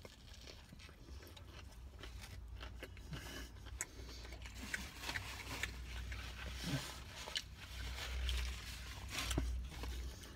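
A person chewing a mouthful of hot dog sandwich topped with an onion ring, close to the microphone: soft wet mouth sounds and small clicks. Partway through a paper napkin rubs across the mouth, over a steady low hum.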